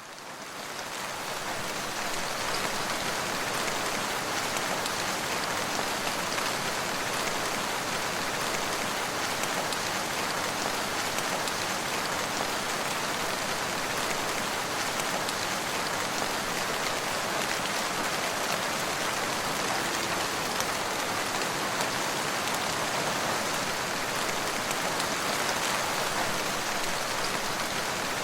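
Steady rain falling, a dense even hiss of many drops, fading in over the first couple of seconds.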